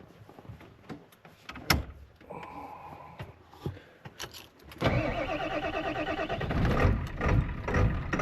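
A single knock, then the 1997 Ford F-350's 7.3 L Powerstroke diesel cranking on the starter about five seconds in, turning over in an even rhythm before it begins to fire roughly near the end. It is a grumpy, hard start, which the owner puts down to running an automatic-transmission PCM with a five-speed manual.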